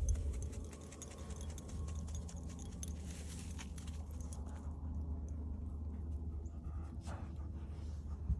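A walk with a dog: rapid small clicks and jingling, like a dog's collar tags, mixed with footsteps, over a steady low rumble. The clicking thins out after about three and a half seconds.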